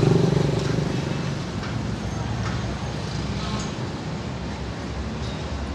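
A motor vehicle passing close by: its low engine rumble is loudest at the start and fades over the first second or so, then a weaker steady rumble carries on.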